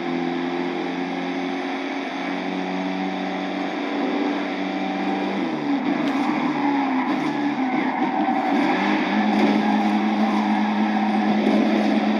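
Car engine held at high revs, a steady drone that wavers up and down in pitch midway, then settles and holds steady while getting a little louder.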